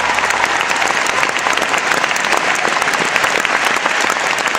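Large audience applauding, a dense, steady mass of clapping.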